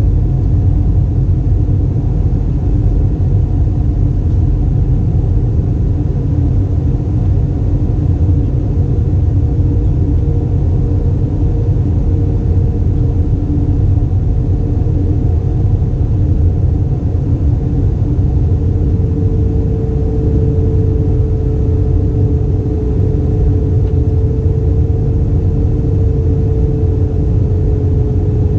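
Airbus A320 cabin noise in flight: the steady, loud low rumble of the engines and airflow, with a faint hum that drifts slightly lower in pitch near the end.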